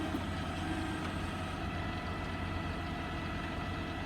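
Diesel tractor engine running steadily with an even, low engine note.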